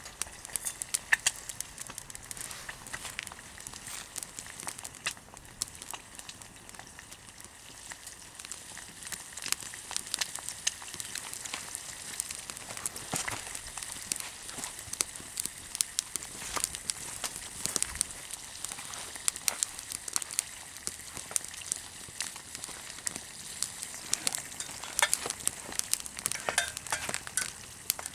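Bacon and eggs sizzling in a pan over a wood campfire, a steady hiss dotted with frequent sharp pops.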